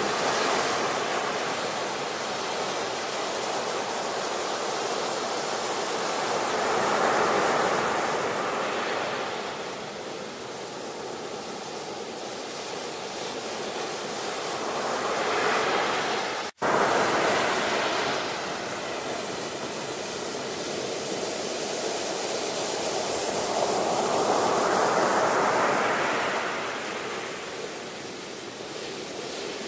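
Ocean waves breaking and washing up the shore in slow surges, each swelling and ebbing over about eight to nine seconds. The sound cuts out for a split second about halfway through.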